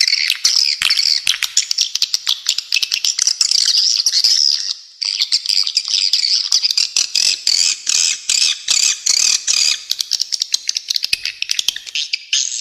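Edible-nest swiftlets twittering: a dense, continuous stream of rapid high chirps and clicks, with a short break about five seconds in.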